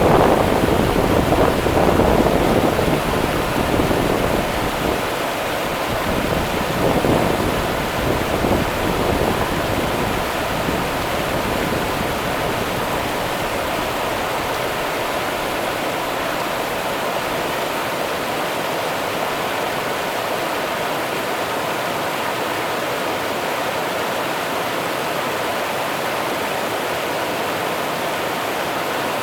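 The Rio Grande's river water running in a steady, even rush. It is louder and gusty, with low rumbling, for the first several seconds before it settles.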